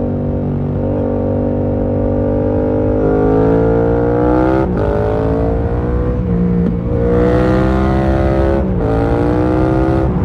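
Yamaha MT-07's 689 cc parallel-twin engine pulling hard, its pitch climbing twice, each climb cut by a brief break at a gear change about four and a half and eight and a half seconds in.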